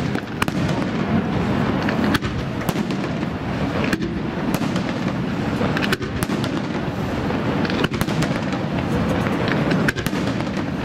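Aerial firework shells bursting one after another: sharp bangs at irregular intervals, roughly one to two a second, over a steady dense wash of noise from the display.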